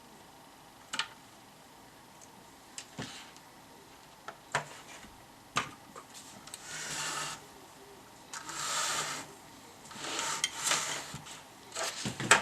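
Workbench handling noises: scattered clicks and knocks, then three scraping or rubbing strokes of about a second each, with more clicks near the end.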